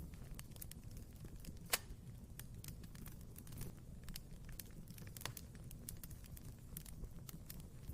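Wood fire burning in a fireplace: a low steady rumble of flames with scattered sharp crackles and pops, the loudest pop about two seconds in.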